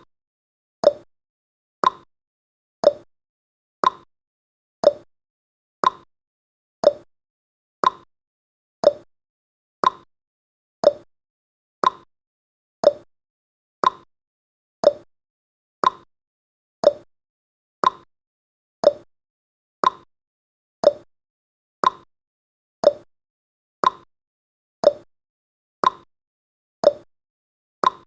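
Countdown timer's clock-ticking sound effect: one sharp tick each second, alternating between a higher tick and a lower tock, with silence between.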